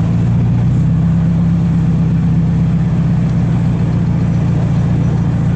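A loud car engine running close by: a steady low rumble.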